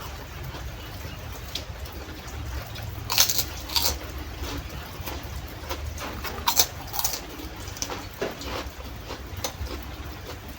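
Close-miked eating: chewing and crunching with scattered sharp clicks, the loudest cluster of crunches about three seconds in and again around six and a half to seven seconds.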